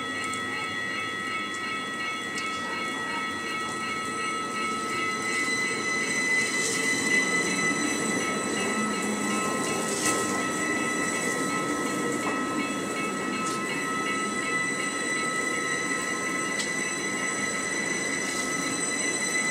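A Rhaetian Railway Bernina line train running slowly along street tracks close by, with a steady high squeal from its wheels and a low rumble of the cars that grows louder about a quarter of the way in.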